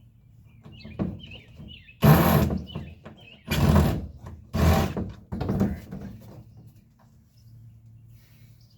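Four short, loud bursts of noisy tool-and-hull sound as a bolt is worked loose at the bottom of a plastic kayak seat, with a few fainter knocks and a steady low hum.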